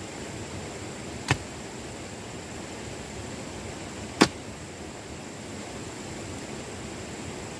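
Two sharp knocks about three seconds apart, the second louder, over a steady hiss.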